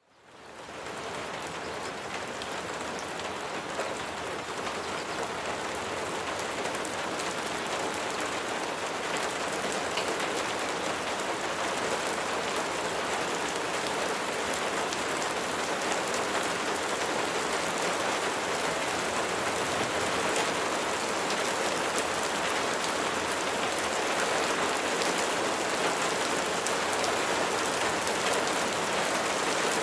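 Steady rain falling, with many fine scattered drop taps. It fades in at the start and grows slightly louder.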